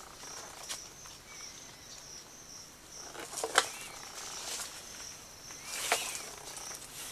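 Outdoor ambience with an insect trilling in a high, pulsing tone, about three pulses a second. Two short, sharp noises stand out about three and a half and six seconds in.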